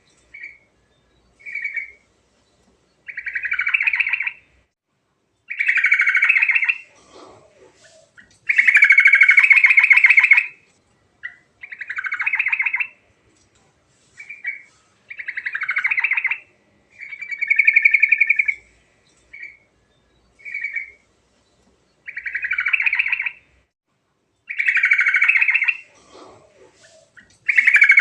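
Yellow-vented bulbul (trucukan) singing: a run of short warbling phrases, one after another every second or two with brief pauses between.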